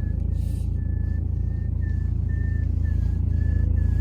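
Steering of a BMW 3 Series E90 whistling as the wheel is turned: a string of short high whistles, about two a second, some dipping in pitch, over the low idle of its M47N2 four-cylinder diesel. The whistle comes only when the car is cold; its exact source in the steering is unknown.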